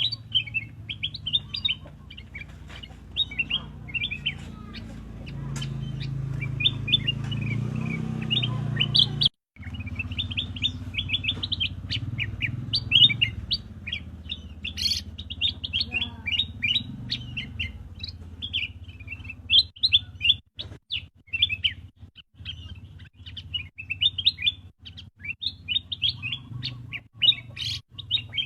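Black-crested bulbul chirping: quick runs of short, high notes repeated again and again, over a low background rumble.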